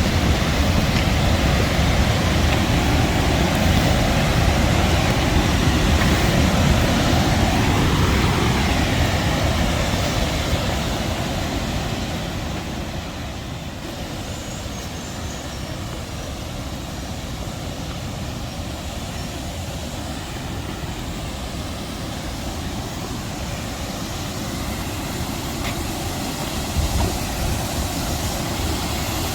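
Steady rushing of the Sheep River's water, loud for the first ten seconds and then easing off somewhat.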